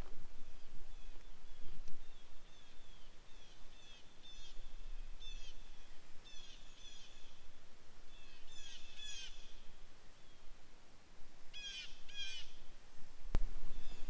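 A bird calling in several short bursts of quick, downward-sliding notes, over a faint outdoor background. A single sharp click comes near the end.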